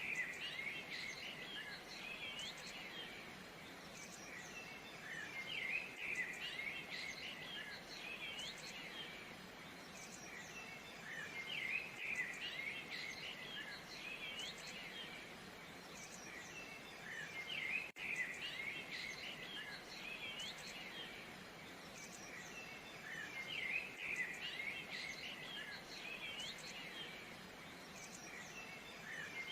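Many small birds chirping and twittering together in a dense chorus, swelling and easing off about every six seconds, with a brief cut about two-thirds of the way through.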